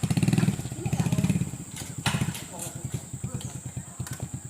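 Motorcycle engine running, revved twice in the first second and a half, then settling to a slower, even putter.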